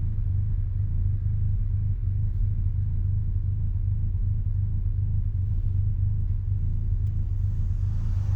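Mazda RX-7's rotary engine through an RE Amemiya Dolphin Tail 90 Curl exhaust, a steady low rumble at an even engine speed, heard from inside the cabin with the windows down.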